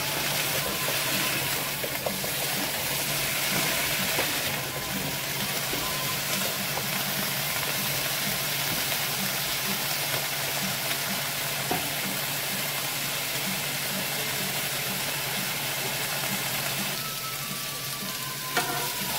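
Cubed potatoes and carrots sizzling as they fry in oil in a nonstick frying pan, stirred with a spatula, with a few light knocks of the spatula against the pan.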